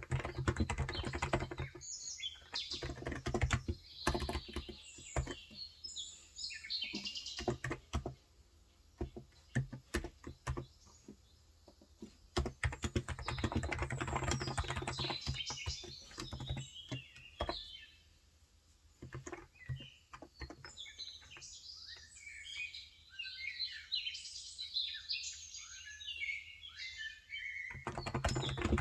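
Typing on a Cox Endeavour electro-capacitive tenkeyless keyboard with light 35 g switches, in fast bursts with pauses of sparse keystrokes between. Small birds chirp throughout in quick, high calls, busiest in the second half while the typing thins out, until the typing picks up again near the end.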